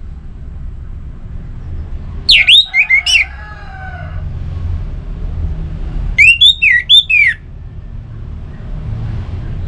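Orange-headed thrush singing: two loud bursts of quick, shrill, falling whistled notes, about two seconds in and again about six seconds in, over a steady low rumble.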